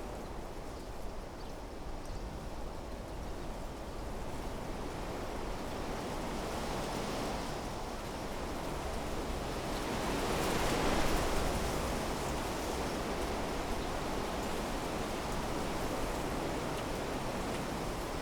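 Wind blowing through trees, a steady rushing of leaves and branches that swells into a stronger gust about halfway through, then settles again.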